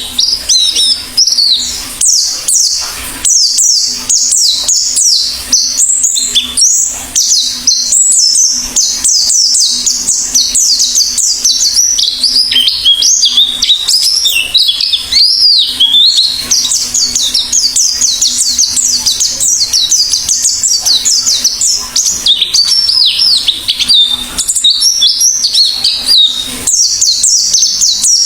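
White-eye (pleci) singing a long, almost unbroken stream of fast, high twittering chirps made of quick down-slurred notes, with only brief pauses.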